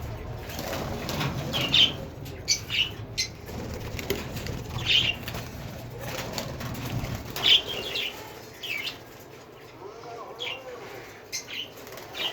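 Pet parrots giving short, high, sharp chirps, about a dozen scattered through, over a low background noise that drops away about eight seconds in.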